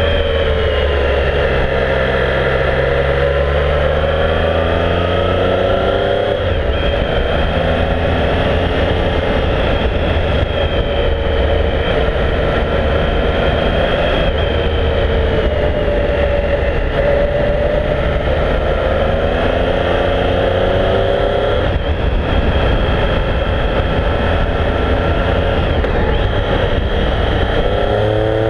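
Triumph Speed Triple's inline three-cylinder engine pulling through a series of bends, its pitch rising and falling with throttle and gear changes, over a steady low wind rumble on the microphone.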